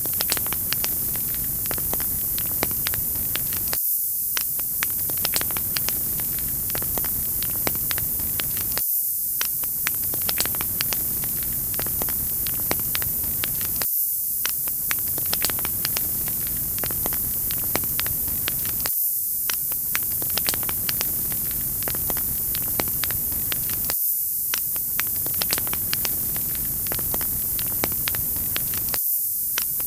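Wood fire crackling in a fireplace: a steady hiss with frequent sharp pops and snaps. The lower part of the sound dips out briefly about every five seconds.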